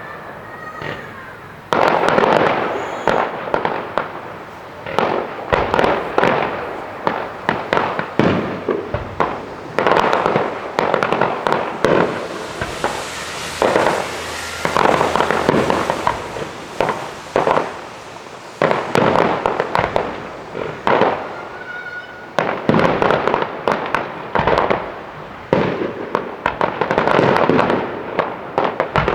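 A fireworks display: a dense, irregular run of sharp bangs and pops coming in loud clusters every second or two, with a few faint whistles among them.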